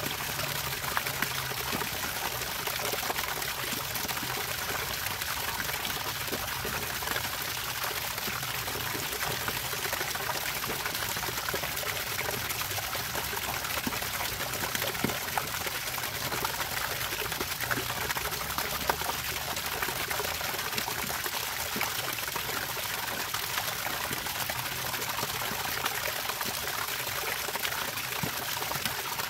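Water trickling and pouring steadily: an even splashing hiss with small drips and plinks scattered through it.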